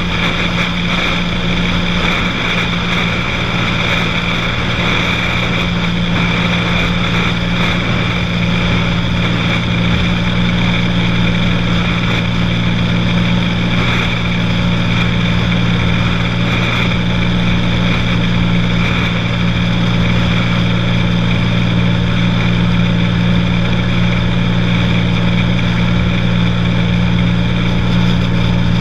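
Cessna 182's single piston engine and propeller running steadily, a constant loud drone with no change in pitch.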